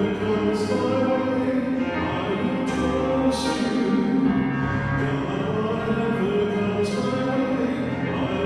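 Choir singing a slow worship song with accompaniment, long held notes.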